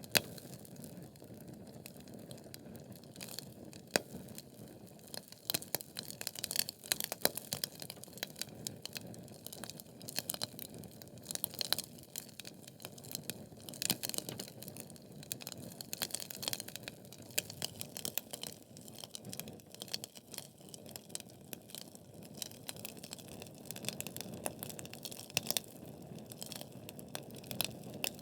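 Wood fire burning in a fireplace: a low steady rush of flames with frequent sharp, irregular crackles and pops from the burning logs.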